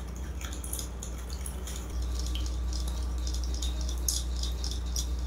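Metal spoon stirring a thin sauce in a porcelain bowl: quick light clinks of the spoon against the bowl and small splashes of the liquid, over a steady low hum.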